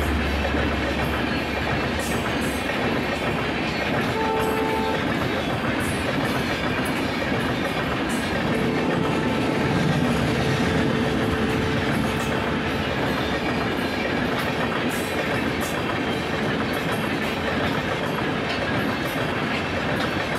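LHB passenger coaches of an Indian Railways express rolling past at speed: a steady rush of wheel and rail noise with clickety-clack over the rail joints. A brief tone sounds about four seconds in.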